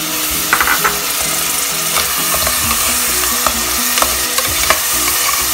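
Tomato purée and onion-spice masala sizzling and frying in a pressure cooker pot while a spoon stirs it, with several sharp clicks of the spoon against the pot.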